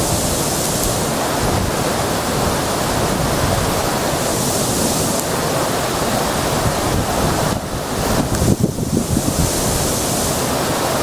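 A river swollen ahead of a typhoon, rushing loudly and steadily. Gusts of wind buffet the microphone about eight seconds in.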